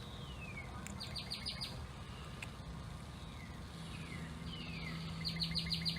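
A songbird singing: several falling whistles and two quick runs of short high notes, about a second in and near the end. A low steady hum comes in past the middle.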